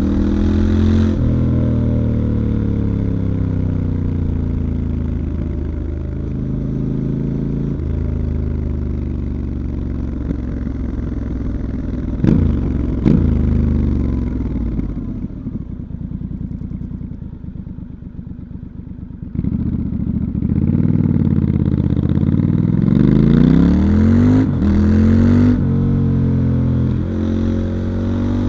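Stock 2019 Triumph Scrambler 1200 XE's 1200 cc parallel-twin engine heard onboard while riding, its pitch rising and dropping with each gear change. Two short throttle blips come about twelve seconds in. The engine then eases off and runs quieter with a falling pitch for a few seconds, and accelerates again through several quick upshifts in the second half.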